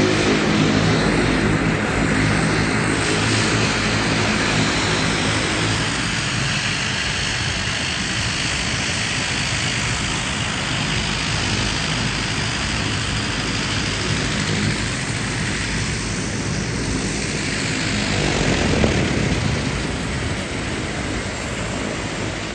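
Propeller aircraft engine running steadily, a continuous noisy hum with low steady tones beneath it.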